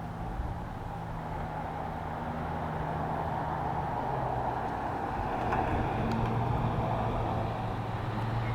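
A motor vehicle's engine running with a low, steady hum that drops slightly in pitch about halfway through and grows slowly louder.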